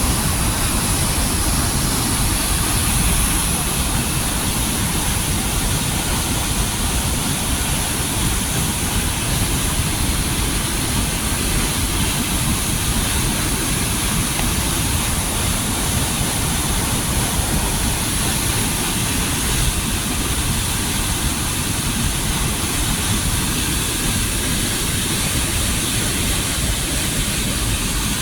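Davis Falls pouring into its karst sinkhole: a loud, steady rush of falling water.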